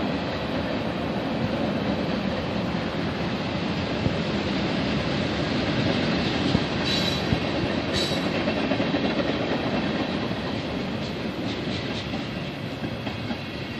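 Freight train's tank cars rolling past: a steady rumble and clatter of steel wheels on the rails, with two brief high-pitched squeaks near the middle.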